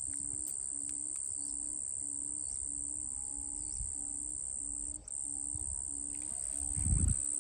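A steady high-pitched chorus of insects chirring, with a low short call repeating about twice a second beneath it. A brief low rumble comes near the end.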